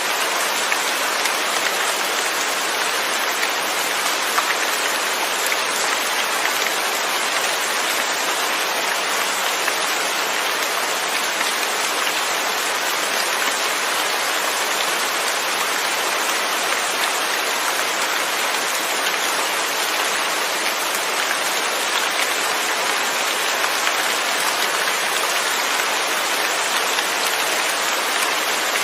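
Steady rain falling on a surface, an even hiss with fine pattering drops and no thunder.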